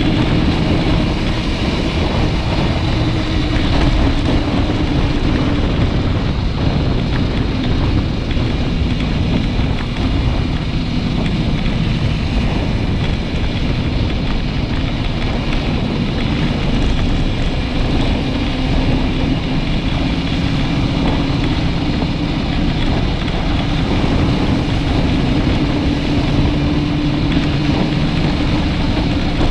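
Motorcycle riding at a steady speed, the engine holding a steady tone that drifts slowly up and down in pitch under loud wind noise on the microphone.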